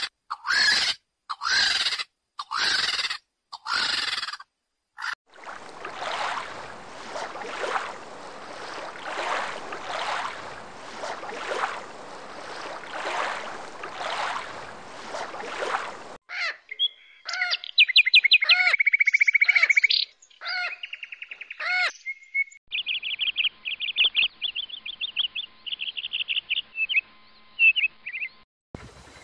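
A string of separate animal sounds: about five short harsh calls, then some ten seconds of pulsing hissing noise, then loud bird whistles and trills, and finally high, rapid bird chirps.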